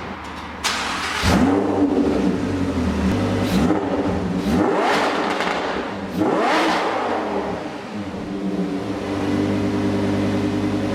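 Lamborghini Huracan's 5.2-litre V10 being revved several times, the pitch sweeping up and falling back, then settling to a steady idle for the last few seconds.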